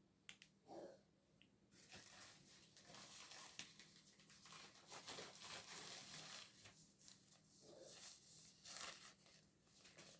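Faint, uneven rustling and crinkling handling noise, with a few soft clicks near the start.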